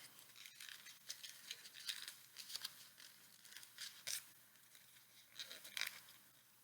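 A square sheet of paper being folded into an origami bird: faint, scattered rustles and creases of the paper being handled.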